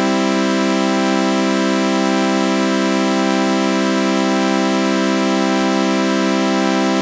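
Synthesized sawtooth-wave chord with a flanger effect, held as one unbroken electronic drone, several notes sounding together with a slight slow wavering in the upper tones.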